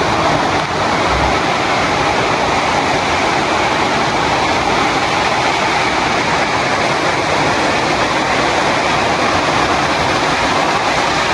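Heavy rain pouring down, a loud, steady, even rush of water.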